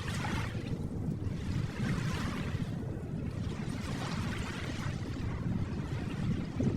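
Gentle ocean waves washing on a shore, a steady surf hiss that swells and eases about every two seconds.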